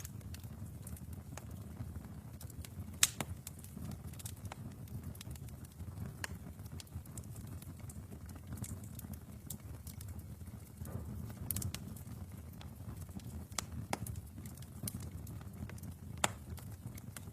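Wood fire burning in a fireplace: a steady low rumble of the flames with scattered sharp pops and crackles of the burning logs, the loudest pop about three seconds in.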